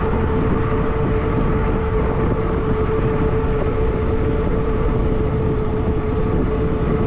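Wind rushing over the microphone of a moving e-bike on a road, with a steady mid-pitched hum throughout.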